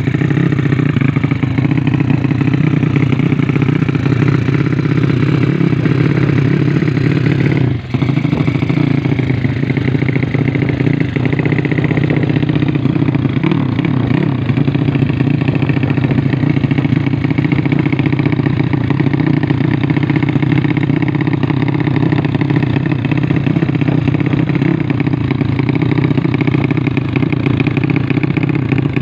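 Honda Wave 125 motorcycle's single-cylinder four-stroke engine running at a steady speed, with a brief drop in sound about eight seconds in.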